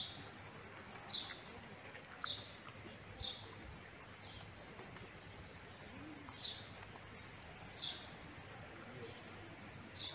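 A small bird chirping: single short, high notes that drop in pitch, about one a second, with a pause of a few seconds in the middle.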